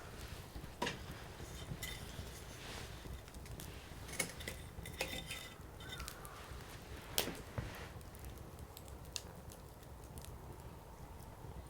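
Firewood burning in a Coleman Fire Disc: irregular crackling with a few sharper pops over a low, steady rush of flame.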